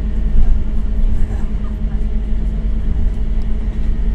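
Scania K270UB city bus's five-cylinder diesel engine running with a steady low rumble.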